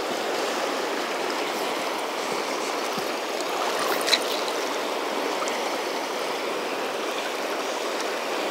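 Steady rush of the South Fork Snake River's current flowing past, with one brief sharp tick about four seconds in.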